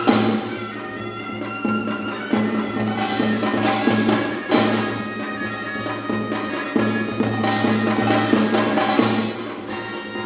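Korean traditional ensemble music: a reedy double-reed melody (piri or taepyeongso) over a steady low drone, with bright metal gong strikes coming in a few times, clustered about three to four and a half seconds in and again near eight to nine seconds.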